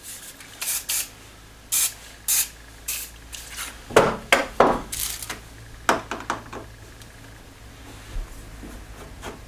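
Carpet side trim strips being worked loose and pulled off a car's floor edge: a string of short scrapes, rubs and knocks, the loudest cluster about four seconds in.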